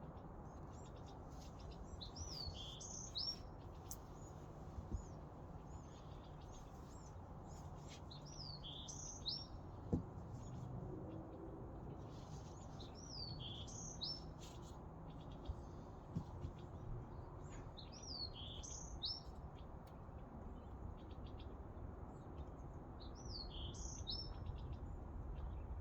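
Birdsong: a small bird repeats a short phrase of a few high, swooping notes about every five seconds, over a steady low rumble of background noise.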